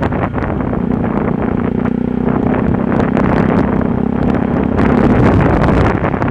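Yamaha WR125R's single-cylinder four-stroke engine running steadily under way, with heavy wind noise on the microphone; it grows louder about five seconds in.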